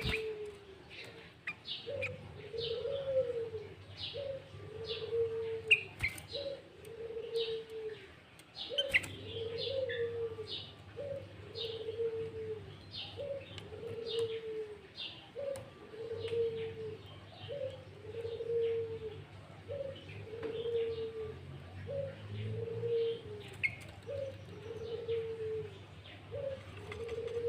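A dove coos steadily in a repeating two-part phrase, a short note then a longer arched one, about every second and a half. Over it run short, sharp high chirps from songbirds in a bulbul lure recording, busiest in the first half.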